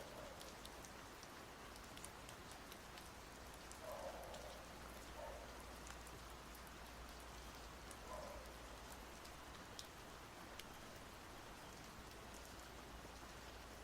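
Steady, soft rain with scattered drip ticks. A faint, soft sound recurs about every four seconds.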